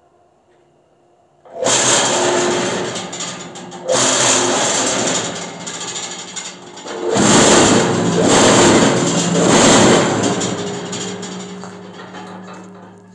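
Electric vibrator motor of a cinder-block making machine switched on. The machine rattles and buzzes loudly in several surges, then winds down gradually near the end, leaving a low hum.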